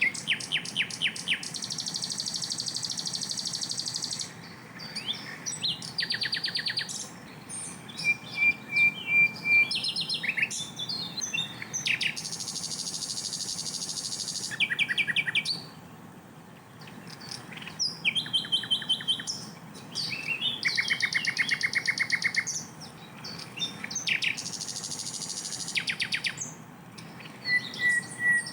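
A sikatan londo (an Old World flycatcher) singing a varied song. It mixes fast runs of sharp repeated notes (the "tembakan" that keepers prize), buzzy trills and short held whistles, with brief pauses between phrases.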